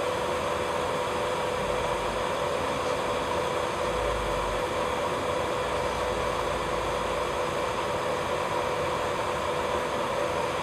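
Electric nail drill (e-file) running at a constant speed, a steady whine over a hiss, used to lift the cuticle.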